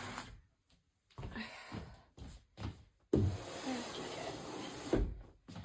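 Hands working art materials at close range: several rasping, sliding bursts, the longest lasting about two seconds, with a soft thump at its start and another at its end.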